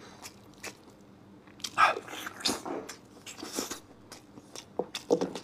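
Close-up chewing and biting of tender lamb rib meat pulled off the bone, with wet, clicky mouth noises in irregular bursts. The bursts are densest about two seconds in.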